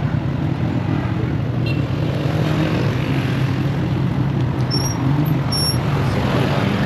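Motorcycle engine running steadily under city traffic and road noise, with a few brief high-pitched chirps about five seconds in.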